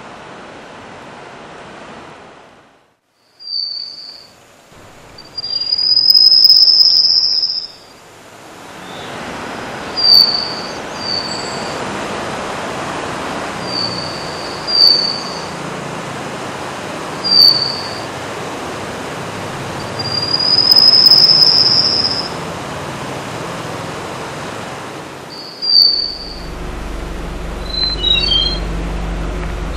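A songbird's clear, high whistled notes over a steady background hiss. Short single whistles are repeated every few seconds, broken by two long, slightly rising whistles. Near the end the background changes to a low hum, and a brief cluster of quick chirps is heard.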